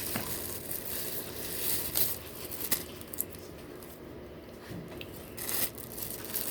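Eating sounds: a person chewing food, with light rustling and scattered small clicks.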